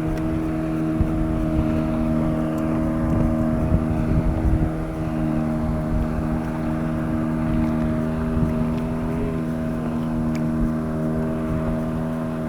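A motor running steadily at a constant speed, a droning hum, with a rough wind rumble on the microphone underneath.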